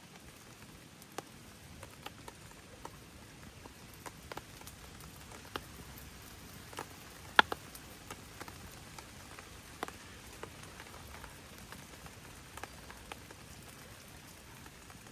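Light rain: scattered, irregular drops ticking onto a surface over a faint steady hiss, with one louder drop about seven seconds in.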